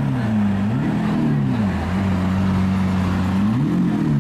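A supercar's engine revved in short blips, its pitch rising and falling about three times with a steady run between the second and third.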